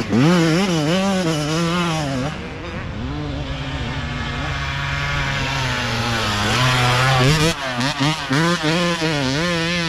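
Youth dirt bike engine revving, its pitch rising and falling quickly as the throttle is worked, then held fairly steady for a few seconds before revving up and down again.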